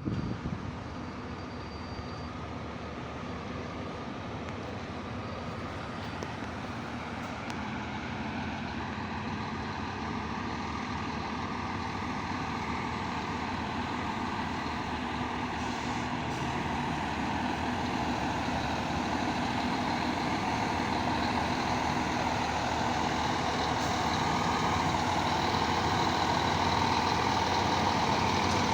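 Diesel engine of a Scania K440 coach running steadily, its sound growing gradually louder.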